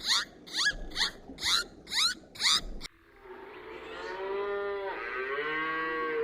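Animal calls: a run of quick, high, rising yelps, about two or three a second, cuts off suddenly about three seconds in. A single long, drawn-out call follows, swelling and bending in pitch.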